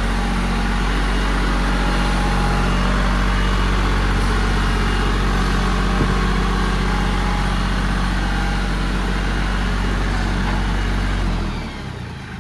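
Tractor engine running steadily at a fast idle, then throttled down near the end, its pitch sliding lower and the sound becoming quieter.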